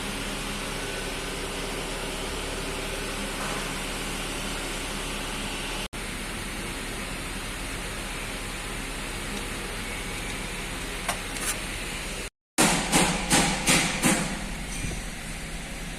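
Steady mechanical hum. After a short break it gives way to a quick run of about six sharp knocks.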